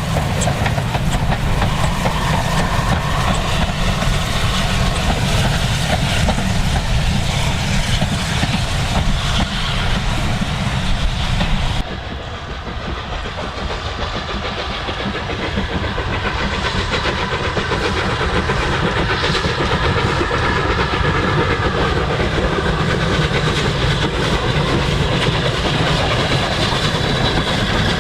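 Flying Scotsman, an LNER A3 three-cylinder steam locomotive, running on the line with its train: a continuous rumble of wheels on rail with steam hiss. About twelve seconds in, the sound drops suddenly and turns duller, then slowly grows louder again.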